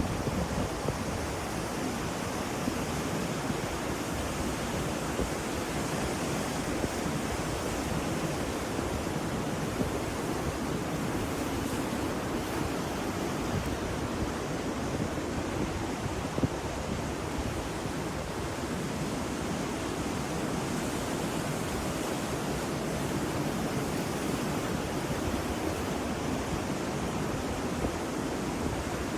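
Ocean waves washing on a shore: a steady, unbroken rush of surf with gentle swells in level.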